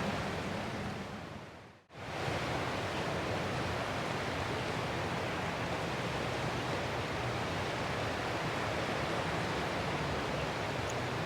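Steady, even rush of ocean surf, heard as a continuous hiss rather than separate breaking waves. It fades away to almost nothing just under two seconds in, then comes straight back at full level.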